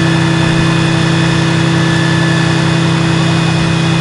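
Diesel engine of a Scania aerial ladder platform fire engine running at a steady speed.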